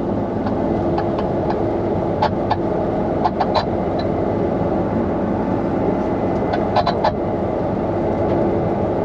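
Combine harvester running, heard from inside the cab: a steady machine drone with scattered sharp clicks and ticks.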